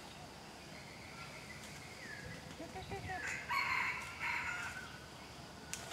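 Bird calls: a few short falling whistles, then a loud harsh squawking call about three and a half seconds in, lasting a little over a second with a brief break.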